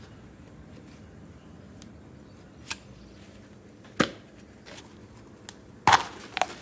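A few separate sharp clicks and knocks of tools and parts being handled while a steering wheel is taken apart, spaced about a second apart, the loudest near the end.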